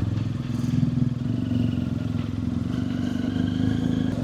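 Motorcycle engine running steadily, with a sharp click right at the start.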